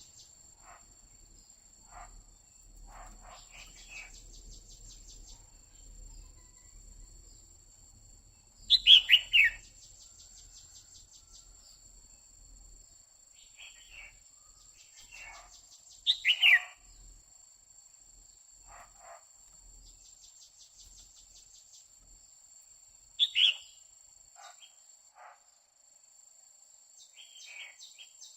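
Female red-whiskered bulbul calling: three loud, short calls that fall in pitch, about seven seconds apart, with softer chirps in between. This is the female call used to rouse male bulbuls.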